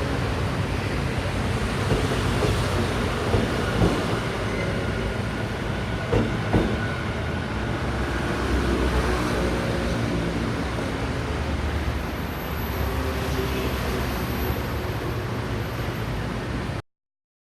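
Taiwan Railways EMU600 electric commuter train running along the platform with a steady rumble and hum, its wheels knocking sharply a few times over rail joints. The sound cuts off abruptly near the end.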